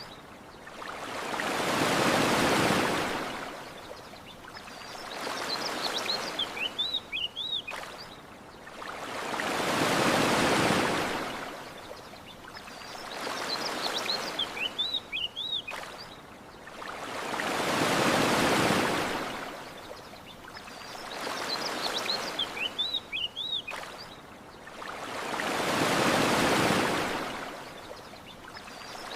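Gentle ocean waves washing ashore, a large swell about every eight seconds with a smaller one between, and short high bird chirps in the lulls. The pattern repeats identically, as a looped ambience track.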